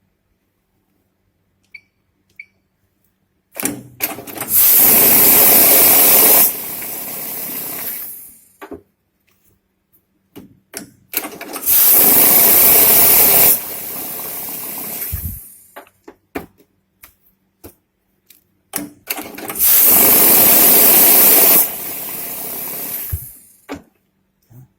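Glory GNH-710 banknote counting machine running three counting cycles. Each cycle is about two seconds of loud whirring and rustling as the notes feed through, then a quieter couple of seconds of the motor running on before it stops. Short clicks and taps come between the cycles.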